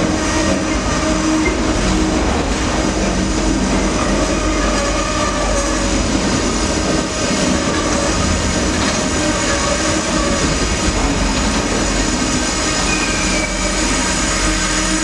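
Amtrak Auto Train autorack cars rolling past, a loud, steady rumble and clatter of wheels on rail with faint wheel squeal running through it.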